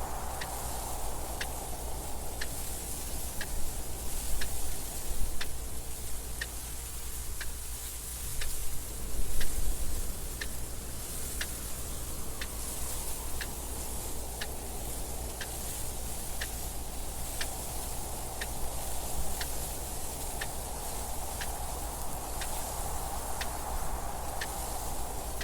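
A clock ticking steadily and evenly over constant wind noise, a low rumble with a hiss that swells and fades. The wind gusts louder twice in the first half.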